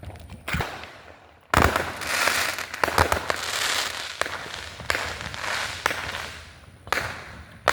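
Fireworks going off: a sharp bang about a second and a half in, then several seconds of dense crackling, with more bangs every second or two.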